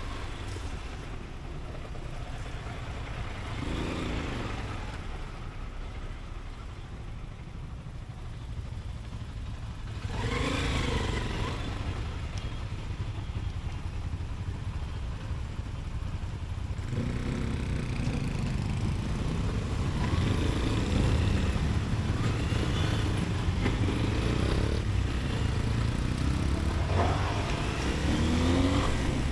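Motorcycle riding in city traffic: its engine running with several rising sweeps in pitch as it accelerates, over a steady low rumble. It gets louder about ten seconds in and again past the halfway point.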